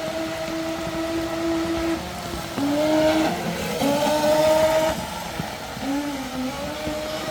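Motor of an 80 cm RC racing speedboat running on water: a steady whine that drops and climbs in pitch several times as the throttle changes, loudest in the middle, over the hiss of the hull through the water.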